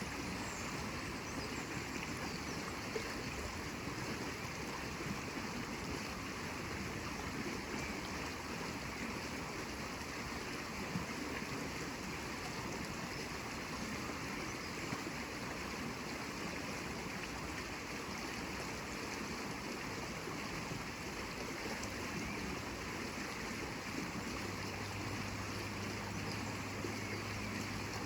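Steady, unbroken rush of running water. A low steady hum joins about 24 seconds in.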